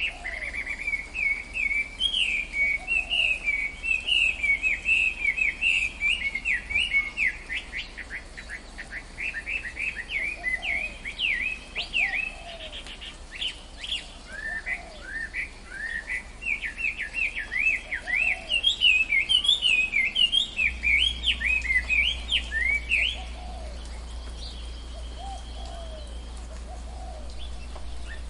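Birds singing in a fast run of chirping notes that stops about 23 seconds in, leaving a few faint, lower calls.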